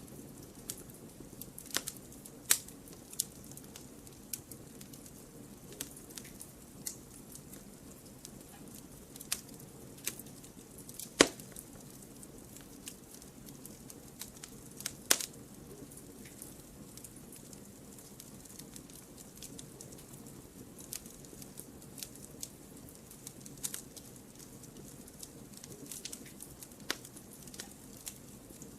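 Wood fire burning in a fireplace: a steady low rush of flame under irregular crackles and sharp pops, the loudest pop about eleven seconds in.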